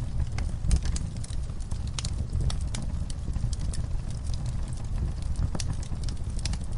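Wood fire in an outdoor fire pit crackling: irregular sharp pops and snaps over a steady low rumble.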